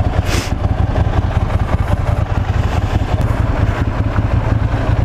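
Ducati Monster 796's air-cooled L-twin engine running at low revs, a steady low rumble, with a short hiss about half a second in.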